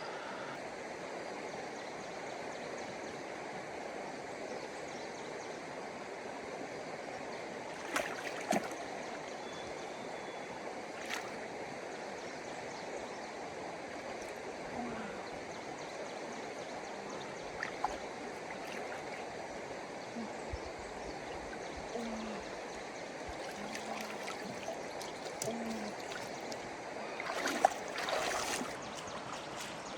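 Steady flowing floodwater, with a few short sharp sounds scattered through and a cluster of louder ones near the end.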